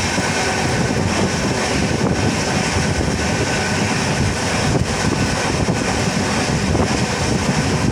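A passenger train running at speed, heard from on board: a steady rumble and rush of wheels on the rails and air streaming past.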